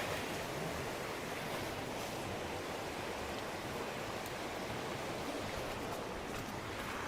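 Steady, even rushing noise of outdoor ambience, with no clear single event.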